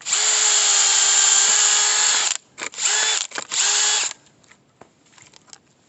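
Power drill spinning a screw-cone log-splitter bit into firewood: the motor runs steadily at a constant pitch for about two seconds, then is triggered in two short bursts.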